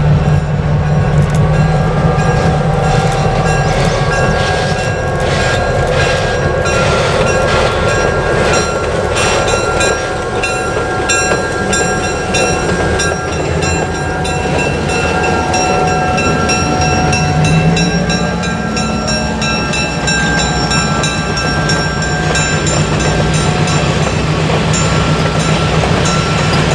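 Freight train running: a steady low engine drone, rapid clicking of wheels over the rail, and thin steady high-pitched squeals from the wheels.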